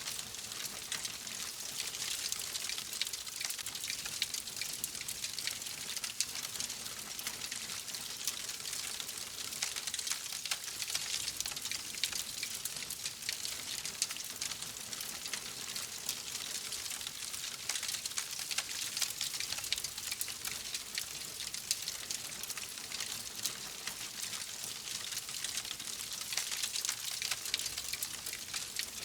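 Wood fire crackling steadily: a dense stream of small pops and snaps over a soft hiss.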